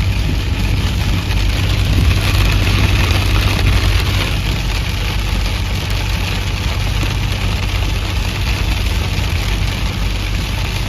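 Vehicle driving steadily in the rain: a constant low engine hum under an even hiss of tyres and rain on the road.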